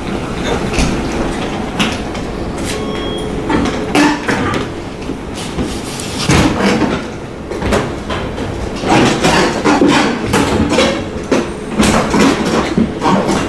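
KONE MiniSpace traction elevator running, a steady rumble with irregular rattling and knocking that grows busier and louder about halfway through.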